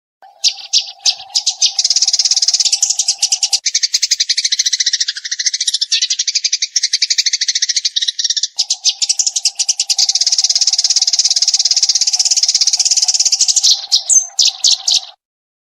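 Eurasian tree sparrow giving a long run of rapid, high chirps in quick-fire 'tembakan' bursts. A steady low hum lies under the chirping for much of the time, and the whole sound cuts off suddenly near the end.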